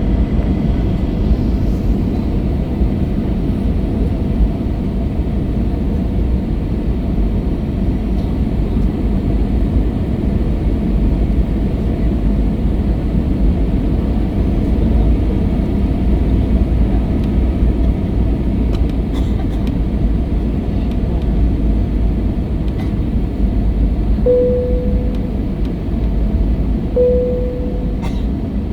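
Steady rumble of an Airbus A321's cabin noise on final approach, airflow and engines running at an even level. Near the end come two short single tones about three seconds apart.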